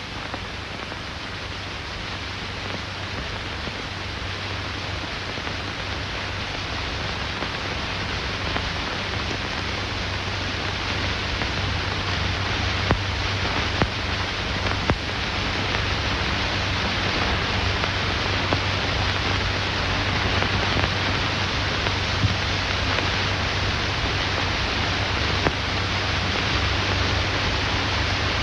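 Steady hiss with a low hum from an old film soundtrack, growing gradually louder, with a few sharp crackles in the middle and later part.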